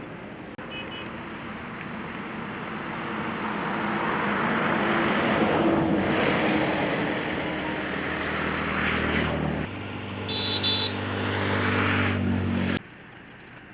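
A motor vehicle running close by, growing louder over several seconds, with a short high-pitched tone about ten seconds in; the sound cuts off abruptly near the end.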